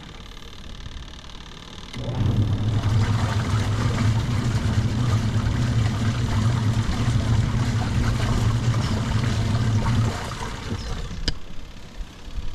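Semi-automatic twin-tub washing machine's wash motor and agitator churning the laundry. After a pause of about two seconds the motor starts and hums steadily for about eight seconds, then stops. This start–run–stop pattern is the wash cycle alternating its spin direction.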